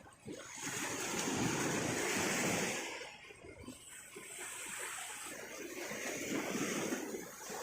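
Sea waves washing onto the shore: two long swells of surf hiss, one after the other.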